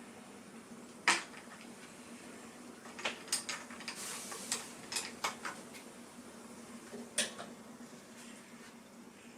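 Ice cubes dropped into a glass, clinking: one sharp clink about a second in, a quick run of clinks from about three to five seconds, and one more near the end, over a steady low hum.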